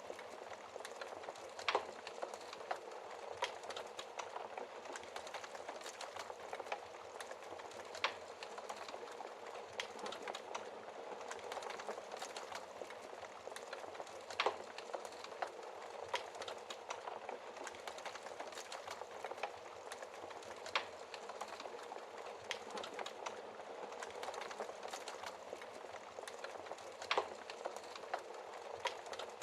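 Wood fire burning in a fireplace: a steady dense crackle with frequent small snaps and an occasional louder pop every several seconds.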